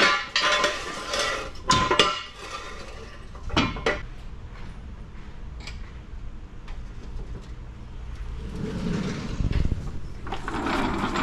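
Metal tools and engine parts clanking and knocking together during an engine swap, a few sharp knocks in the first few seconds, then a low rumble and rising clatter near the end.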